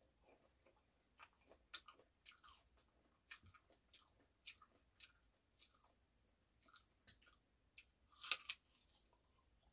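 Faint close-up chewing of cut persimmon pieces: scattered soft mouth clicks, with a louder bite into a fresh piece about eight seconds in.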